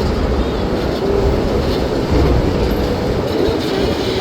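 Disney resort parking tram in motion, heard from aboard: a steady rolling rumble and road noise with a faint wavering whine.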